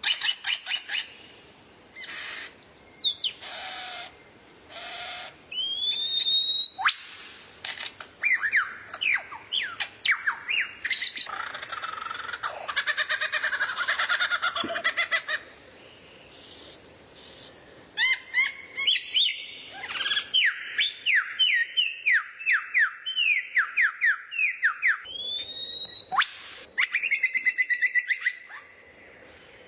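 Recorded songbird song: rapid runs of short, downward-sweeping notes, two rising whistles, and a dense warbling passage in the middle.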